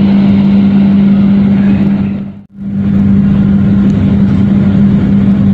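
Train noise heard from inside a passenger carriage: a train passing close alongside, with a steady hum running under it. The sound fades out briefly about two and a half seconds in, then returns as the same steady hum and running noise of the carriage.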